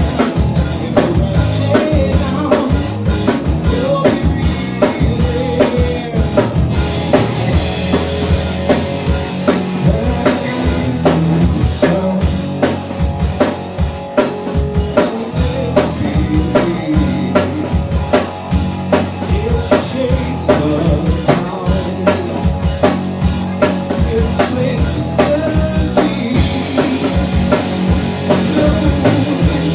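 A live band playing a song: a drum kit keeps a steady, busy beat under guitar and bass.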